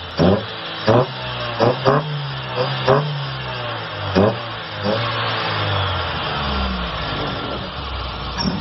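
Car engine fitted with a high-flow performance air filter, revved in several quick, sharp throttle blips over idle, then its revs rising and falling more gently in the second half.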